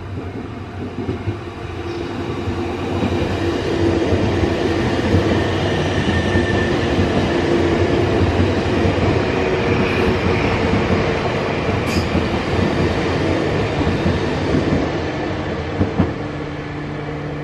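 Nankai 6000 series stainless-steel electric train running through a station without stopping: the rumble of its wheels on the rails grows louder as it approaches, stays loud for about ten seconds as the cars pass close by, then fades as it goes away.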